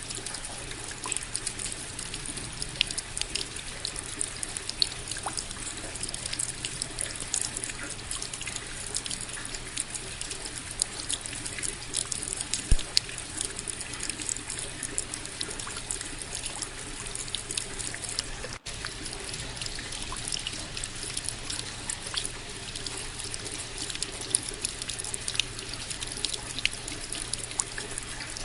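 Steady rain falling, with many separate drops ticking sharply over a constant patter. The sound breaks off for a split second about two-thirds of the way through.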